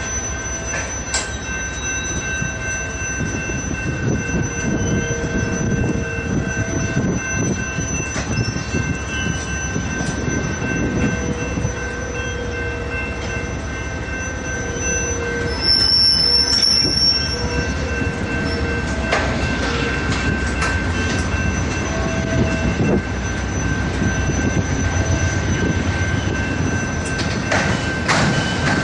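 Loaded rail train's bulkhead flatcars, stacked with long welded rail, rolling slowly past: a steady rumble of wheels on track with scattered clicks. A shrill squeal about halfway through is the loudest moment.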